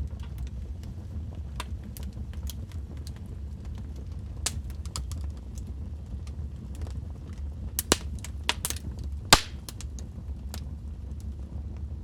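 Log fire in a fireplace crackling: a steady low rumble of flames under scattered sharp pops and snaps, the two loudest pops about eight and nine seconds in.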